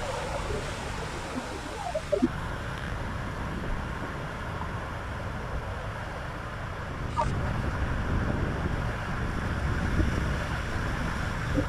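A vehicle moving along a rain-flooded road: a steady low rumble under a rushing, splashing water noise, with wind buffeting the microphone.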